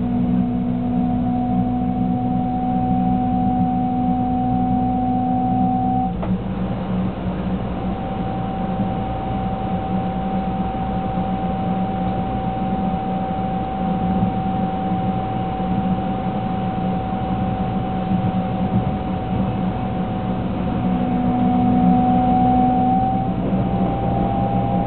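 Shinkansen 300 series heard from inside the car: the held, several-toned whine of its inverter-driven traction motors over the low rumble of the running train. The whine jumps in pitch about six seconds in and shifts again with a slight glide near the end.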